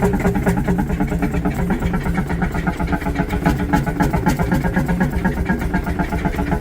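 A large old engine running steadily, with an even, rhythmic beat of firing strokes.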